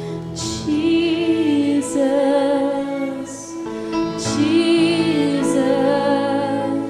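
Slow worship music: a woman singing long held, wavering notes over sustained keyboard chords.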